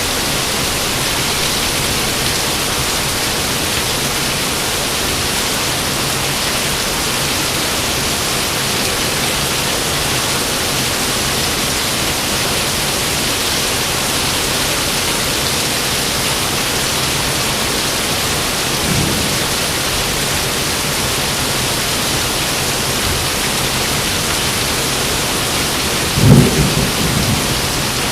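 Steady rain hissing throughout, with a faint roll of thunder about two-thirds of the way in and a sharper, louder thunderclap near the end that rumbles away in a few pulses.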